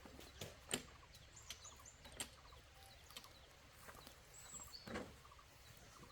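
Faint outdoor background with a few short, high bird chirps and occasional soft knocks.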